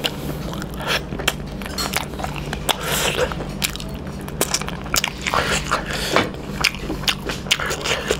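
Close-miked biting and chewing of fried chicken innards, eaten by hand: a run of short, wet clicks from the mouth and the food.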